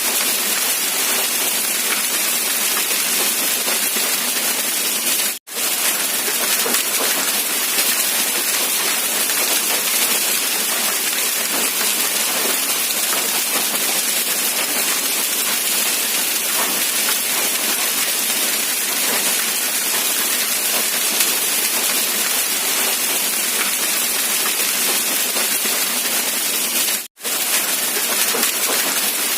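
Steady rain falling, an even hiss with no distinct drops or thunder. It cuts out abruptly for a split second twice, about five seconds in and near the end.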